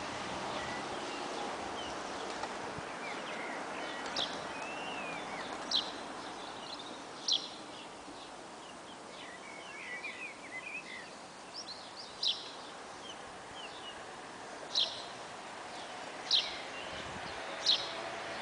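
Birds calling: a series of short, sharp high-pitched calls spaced a second or more apart, with bouts of quick twittering in between, over a steady outdoor background noise.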